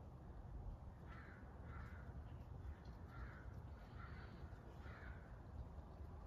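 A bird calling outdoors: five short calls about a second apart, over a faint low rumble.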